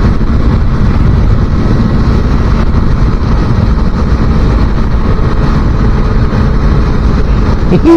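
A 250cc motorcycle running steadily at about 65 mph, its engine hum buried in loud, even wind and road noise. A brief falling tone sounds right at the end.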